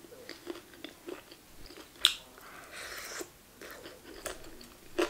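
Close-miked chewing of Chinese pork: wet mouth smacks and clicks at an irregular pace, with one sharp louder click about two seconds in.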